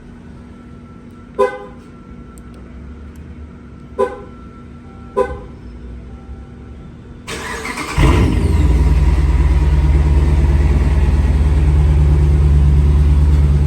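Three short car-horn toots, then the Dodge Challenger's 5.7 Hemi V8 cranks and catches about eight seconds in. It settles into a loud, steady idle through its aftermarket Emil exhaust.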